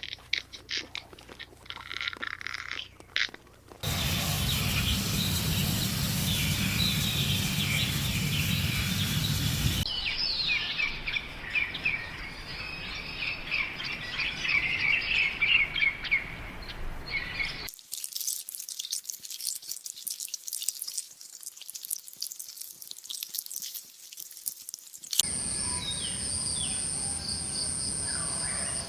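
Small birds chirping, many short repeated calls, over outdoor background noise. About three-quarters of the way through, the sound changes to a steady, high insect-like trill.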